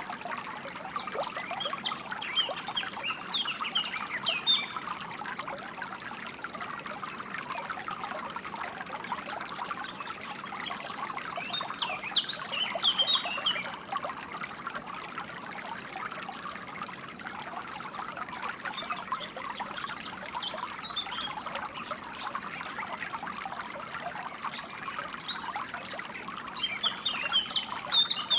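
Water trickling and bubbling steadily in a small stream, with bursts of bird chirping and song a few times over it.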